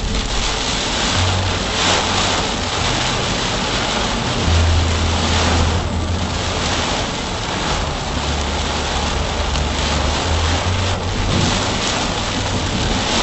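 Heavy rain and road noise from a car driving on an expressway in a downpour, a steady rushing hiss over a low hum that swells a few times.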